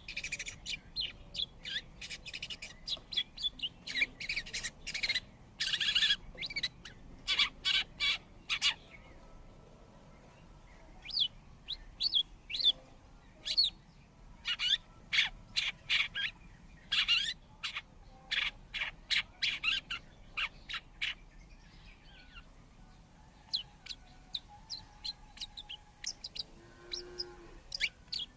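Long-tailed shrikes (cendet) calling: rapid runs of short, sharp chirps that come in clusters with brief pauses between them. A short, lower call is heard near the end.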